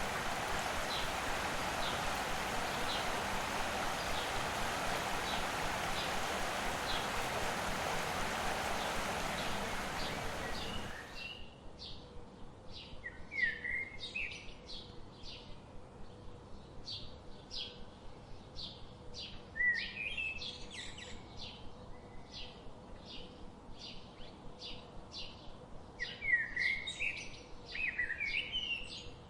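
Wild songbirds chirping. For the first eleven seconds faint chirps about once a second sit under a steady rushing noise. That noise then cuts off abruptly, leaving a rapid repeated high chip note about twice a second and bursts of louder twittering calls.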